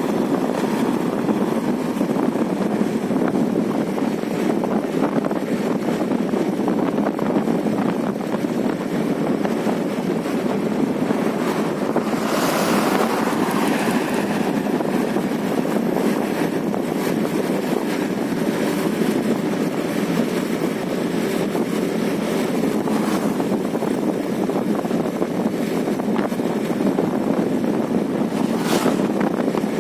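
Steady wind rush on the microphone over a vehicle's road noise, with a brief louder rush about twelve seconds in and another near the end.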